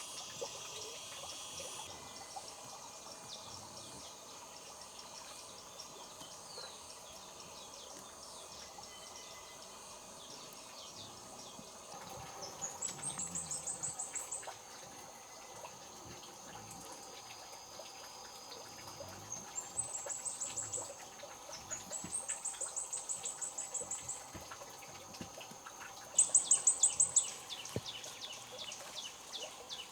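Forest wildlife: a steady high insect drone, with four runs of rapid chirping trills of about ten chirps a second, the loudest near the end.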